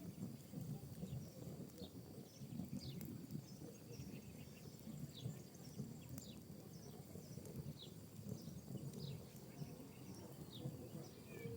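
Wood and pinecone fire burning in a fireplace, with a low rumble and irregular crackles and pops, plus a few sharper snaps. Faint high falling chirps repeat about every half second to a second throughout.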